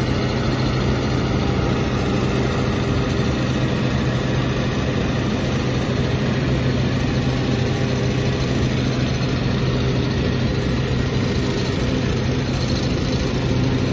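Hürlimann Elite 135 tractor's diesel engine running steadily at an even speed, with a constant low hum and no revving.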